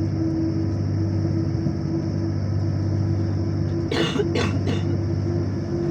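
Steady low rumble and hum of a moving vehicle heard from inside, with a constant low drone and a hiss over it. About four seconds in there are a few short vocal sounds, like coughs.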